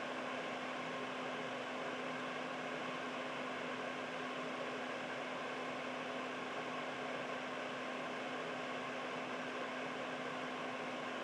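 Air purifier running steadily: an even rush of air from its fan, with a low steady hum from the motor underneath.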